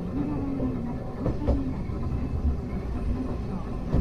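Hankai Tramway car 351 running, heard from inside the car: a steady low rumble with a wavering hum, and a couple of wheel clacks over rail joints about a second and a half in.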